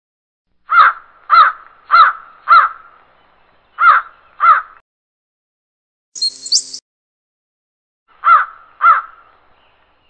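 A bird calling in short repeated calls: four about half a second apart, two more a second later, and another two near the end. A brief high-pitched sound about six seconds in.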